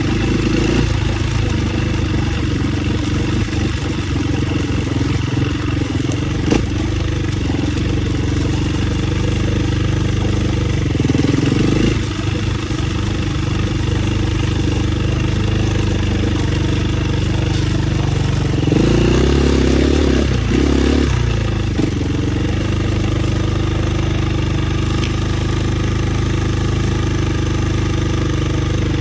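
Dirt bike engine running steadily on a trail ride, with short rises in revs about eleven seconds in and again around nineteen to twenty-one seconds in, and a single sharp knock about six seconds in.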